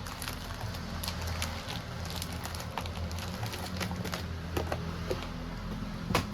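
Scattered light clicks and taps of small tools and parts being handled during a phone repair, one louder click near the end, over a steady low hum.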